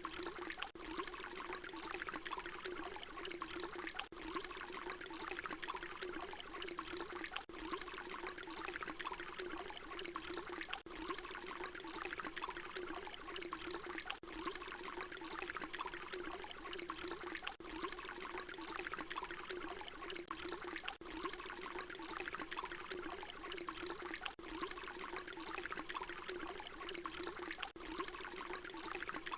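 Water pouring in a steady, continuous stream. It is a short loop that repeats about every three and a half seconds, with a brief dip at each seam.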